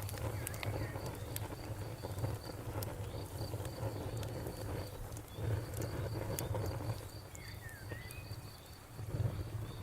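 Campfire crackling, with a low steady rumble under scattered sharp pops. Crickets chirp in an even repeating rhythm behind it.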